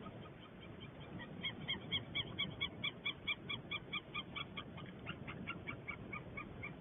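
White-tailed eagles calling: a fast series of short, pitched notes, about five a second, beginning about a second in. Around five seconds in, a second bird's series joins at a slightly different pitch.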